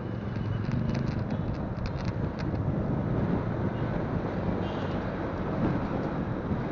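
Wind rushing over the phone's microphone on a moving motorcycle, with the engine running underneath; steady throughout, with a few light clicks in the first couple of seconds.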